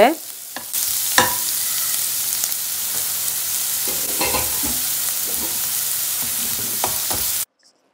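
Chopped onions, green chillies and ginger frying in hot coconut oil in a nonstick pan: a steady sizzle with a few small pops, as the onions sauté to soften. A steel spatula stirs them at the start, and the sizzle cuts off suddenly near the end.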